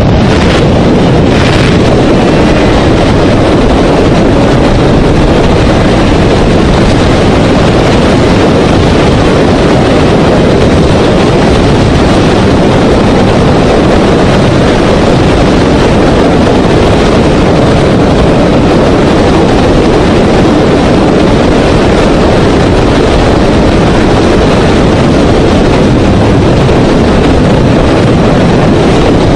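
Steady, very loud road and wind noise of a moving vehicle, an unbroken rushing noise with no distinct impacts.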